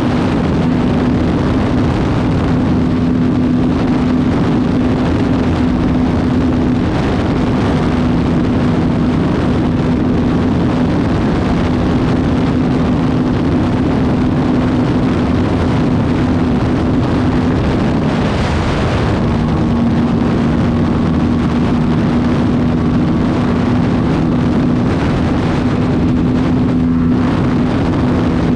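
Aprilia RS457 motorcycle's parallel-twin engine running at a steady pitch under way, with wind rushing over the microphone. The engine note breaks off briefly a little past halfway, then comes back at the same pitch.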